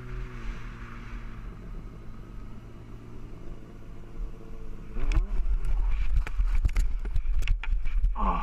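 Motorcycle engine running steadily under heavy wind rumble. About five seconds in the engine revs up, then a quick run of sharp knocks and clatter follows.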